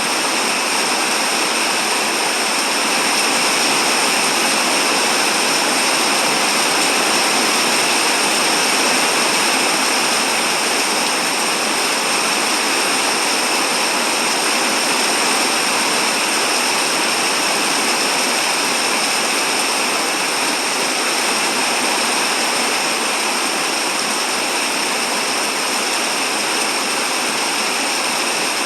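Steady, even hiss of rain falling, with no breaks or separate drops.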